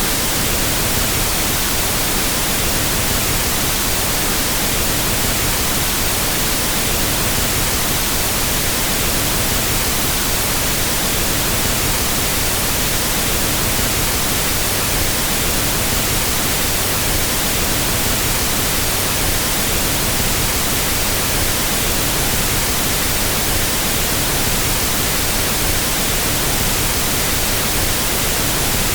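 Pink noise test signal for equalizing sound systems: a steady, unchanging hiss.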